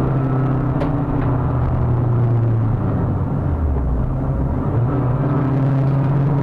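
Renault Clio 182 Trophy's 2.0-litre four-cylinder engine running hard on track, heard from inside the cabin over tyre and wind noise. Its pitch holds steady, falls briefly about three seconds in, then climbs again.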